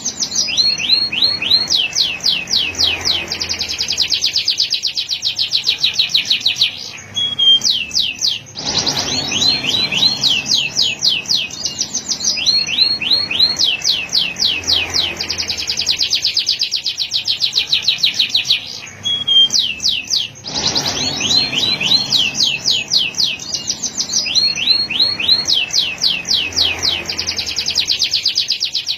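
Male canary singing long rolls: fast trills of repeated high, sweeping notes, pausing briefly twice. The same run of phrases comes round again about every twelve seconds.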